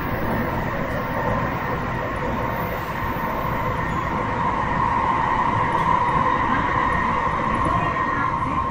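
Tsukuba Express TX-1000 series electric train running, heard from inside the car: a steady rumble of wheels on rail with a level high hum that grows a little louder about halfway through.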